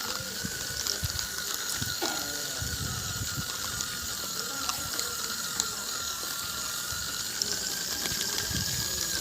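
Small electric gear motors of a homemade RC 4×4 toy tractor running with a steady whine, its gears rattling and clicking as it pulls a trolley.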